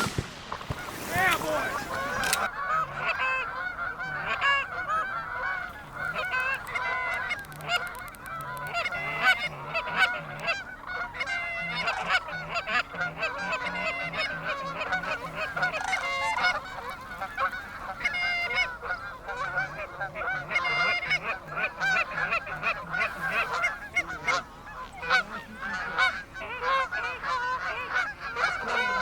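A flock of geese honking continuously, many birds calling over one another, after a noisy rush that fades over the first couple of seconds.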